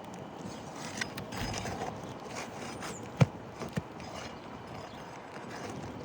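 Hand work on a roof shingle: scattered scrapes and light knocks, with one sharp knock about three seconds in and a smaller one just after.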